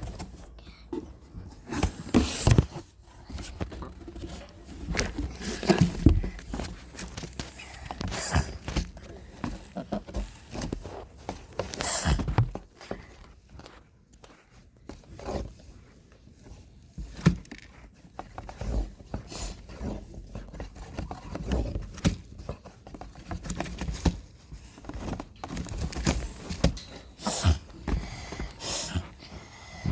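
A pet chicken scratching and pecking about: irregular taps, scrapes and rustles, quieter for a few seconds around the middle.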